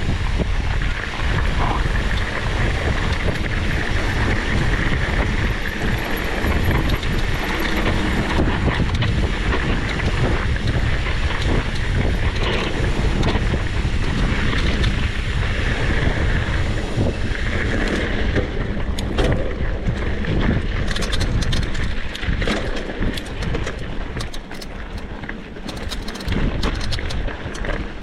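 Small motorcycle engines running loudly with a heavy rumble and a wavering whine. About two-thirds of the way through, the sound turns rougher, with sharp crackles.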